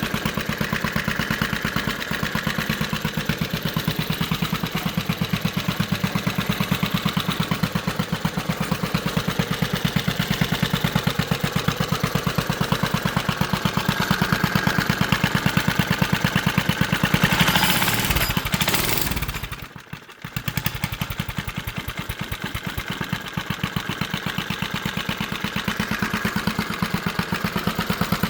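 A 4 hp Tecumseh single-cylinder engine on a mini bike running with an even, rapid firing beat. It revs up from about 14 seconds in, falls away almost to nothing around 20 seconds in, then picks back up to a steady idle.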